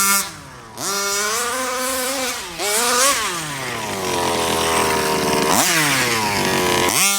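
Rovan 34cc two-stroke engine in an RC Baja, revved hard and repeatedly: the pitch climbs, holds high and drops several times as the throttle is opened and let off.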